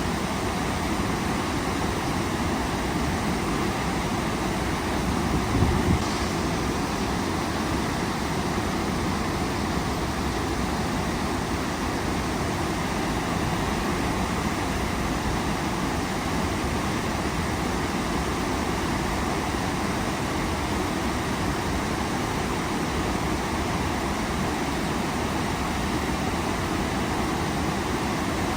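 Steady rush of a waterfall, water pouring and splashing without a break. A brief low bump about six seconds in.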